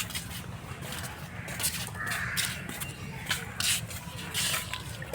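A crow cawing, a harsh call about two seconds in, over scattered clicks and knocks.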